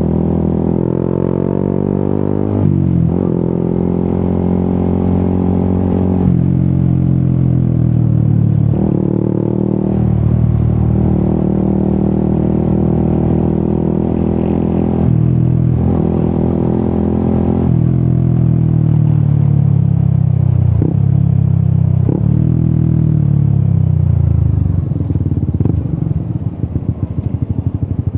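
Yamaha XSR 155's single-cylinder engine through an Akrapovic exhaust, pulling hard on the move with its pitch climbing and then dropping at each gear change. Later the pitch winds down steadily as the bike slows, ending in an uneven low burble off the throttle.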